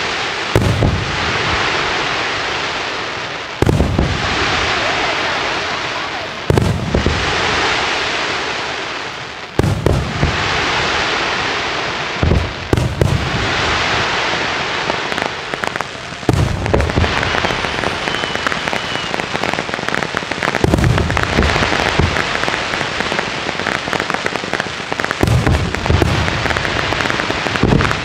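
Aerial firework shells bursting with deep booms every three to four seconds, each followed by a long sizzling crackle of falling stars. From about sixteen seconds in, the crackling grows denser and more continuous between the bangs.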